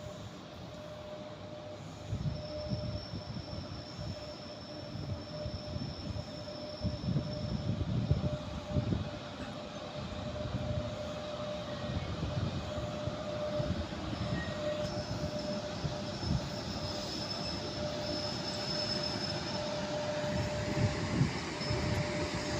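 Passenger train hauled by an EP1M electric locomotive rolling slowly into a station. Its wheels knock unevenly over rail joints under a steady hum, with a high-pitched wheel squeal that comes in about two seconds in and again near the end.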